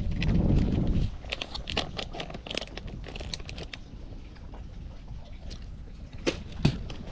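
Crinkling, rustling and small tearing noises of plastic bait packets being handled while powdered fishing bait is prepared. A low rumble cuts off about a second in, and there are two sharper clicks near the end.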